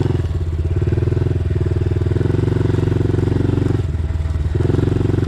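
Small dirt bike engine running at fairly steady revs, dropping off briefly about three times as the throttle is rolled off and back on.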